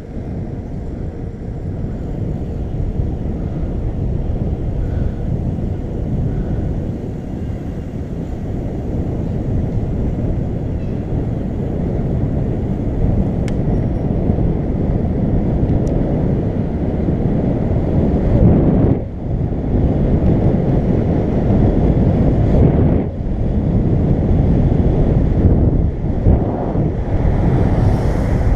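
Wind buffeting the microphone of a moving bicycle: a steady low rumble that dips briefly a few times.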